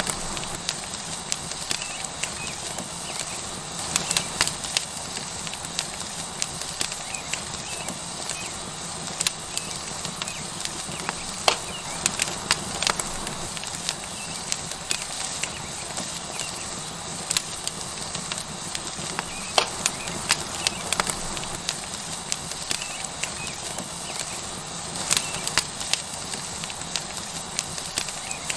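Tomahawk steak sizzling on a hot rock over a wood fire: a steady hiss with frequent, irregular sharp pops and crackles.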